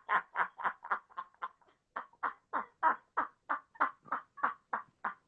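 A person laughing hard in rapid, even bursts of about four a second, a breathless, squeaky run of laughter with no words.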